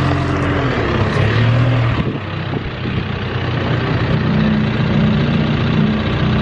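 A car engine running close and loud, its pitch stepping up to a higher steady note about four seconds in.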